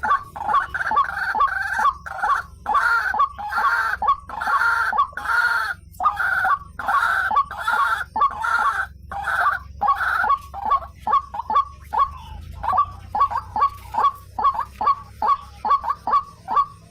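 White-breasted waterhen (ruak-ruak) calling over and over, played as a bird-trapping lure call. For about the first ten seconds the calls are longer notes, about two a second, then they turn into short, quicker notes, about three or four a second.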